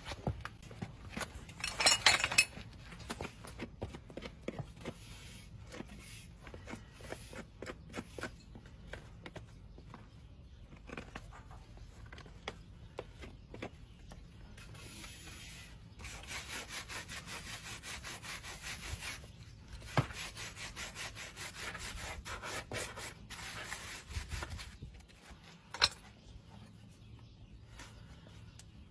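Farrier's hoof tools scraping and rasping a horse's hoof, in many short strokes. A loud scratchy burst comes about two seconds in, and a long run of quick, regular rasp strokes follows past the middle, with a couple of sharp clicks.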